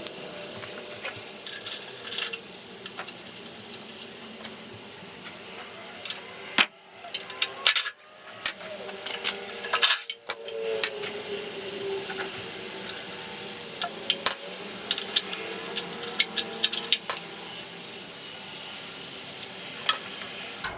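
Hand tools and metal parts clinking and clicking in irregular taps, with a few louder knocks: a fuel tank being unbolted from a pressure washer's small engine.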